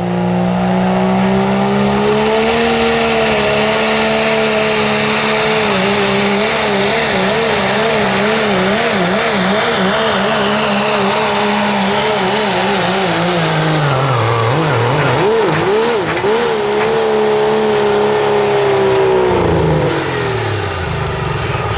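Diesel four-wheel-drive pulling truck running at full throttle down the track under the load of the pulling sled, its engine pitch wobbling rapidly as the truck hops and dipping briefly about two-thirds in. Near the end the engine cuts out as the kill switch is pulled.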